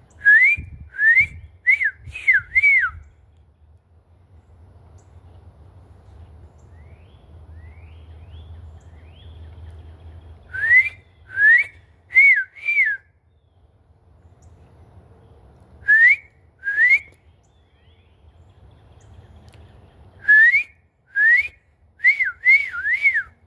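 A person whistling imitations of northern cardinal song: loud groups of quick up-slurred whistles, four or five at a time, with pauses between the groups. Faint, higher bird chirps come in between the whistled phrases.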